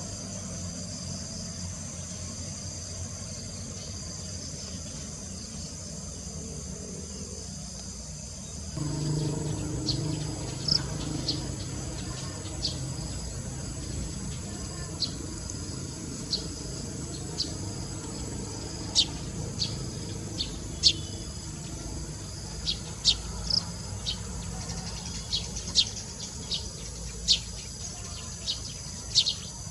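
Steady high insect chorus from crickets or cicadas, with many short, sharp bird chirps starting about nine seconds in and coming more often in the second half.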